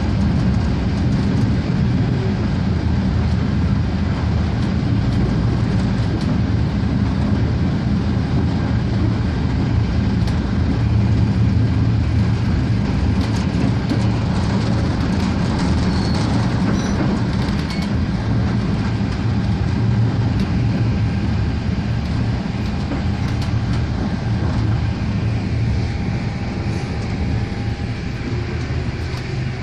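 RegioSprinter diesel railcar running along the line: a steady rumble of engine and wheels on the rails. A faint steady whine joins in over the last third.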